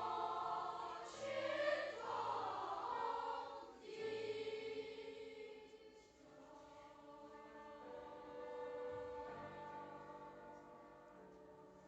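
Choir singing: loud sung phrases for the first few seconds, then quieter held chords that fade toward the end.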